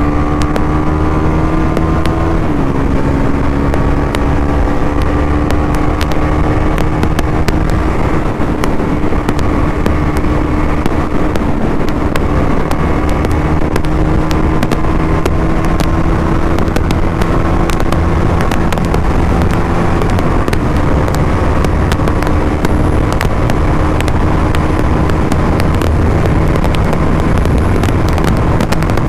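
KTM Duke 390's single-cylinder engine running at a steady cruise under heavy wind rush on the microphone. Its pitch climbs slowly, stepping down slightly about two seconds in and again about twenty seconds in.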